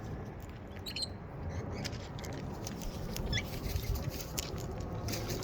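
Wild parrots feeding at close range: scattered small clicks and scratches of beaks and claws on food and perch, with two brief squeaky chirps, over a low rumbling noise.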